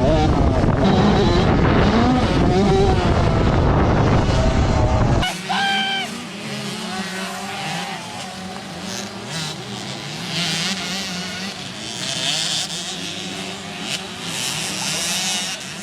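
Motocross bike engines revving up and down as bikes race past close by. About five seconds in the sound drops abruptly, and the revving continues quieter and further off.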